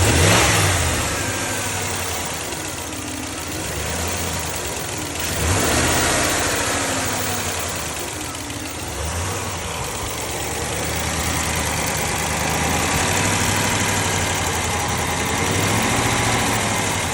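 Car engine idling and blipped up in revs several times, about four or five seconds apart. The owner is unsure whether its ticking is lifter tick, an exhaust leak, or normal.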